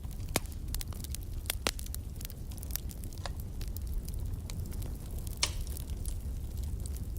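Wood fire burning in a fireplace: a steady low rumble of the flames with irregular sharp crackles and pops throughout, a few of them louder.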